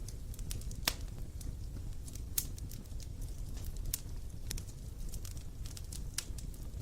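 Wood fire crackling, with irregular sharp pops of burning wood over a low, steady rumble.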